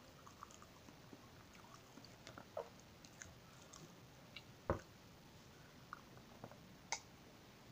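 Soft chewing and wet mouth sounds of a person eating sticky glutinous-rice cake, with a few sharp clicks, the loudest about halfway through.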